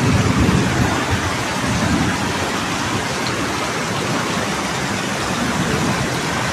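Steady hiss of heavy rain and running floodwater heard through a phone's microphone, with low rumbles near the start and a few times after.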